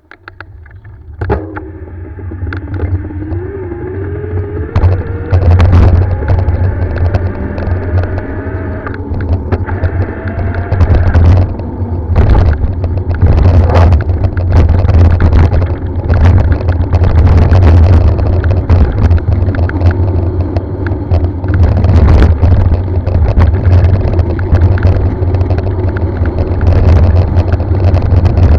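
Motorcycle engine running under load on a trail climb, its pitch rising over the first ten seconds or so and then holding. A heavy low rumble and scattered knocks run through it.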